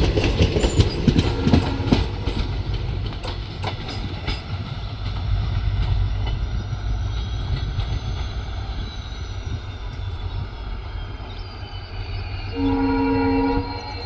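Indian Railways train running past, its wheels clicking over the rail joints for the first couple of seconds and then settling into a steady low rumble. Near the end a train horn sounds once for about a second.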